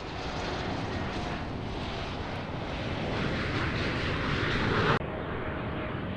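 Airliner engines passing close, a dense roar-like rush that grows steadily louder. About five seconds in it cuts off suddenly to a quieter, duller engine noise.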